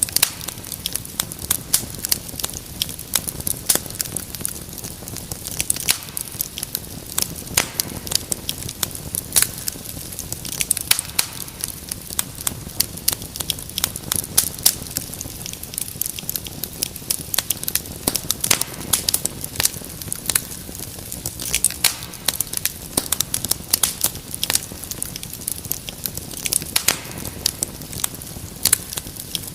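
Wood fire crackling in a fireplace: many sharp, irregular pops and snaps over a low, steady rush of flames.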